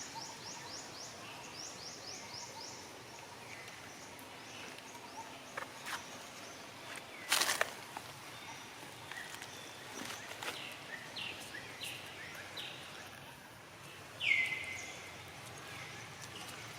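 Outdoor ambience with high-pitched animal calls: a quick run of short falling chirps at the start, a few more later, and one louder falling squeak near the end. A single sharp crack sounds about seven seconds in.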